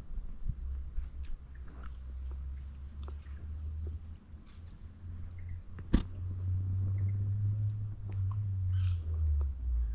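Outdoor bush ambience with a low rumble on the microphone, scattered small clicks and a sharp click about six seconds in, and faint high bird chirping for a couple of seconds after it.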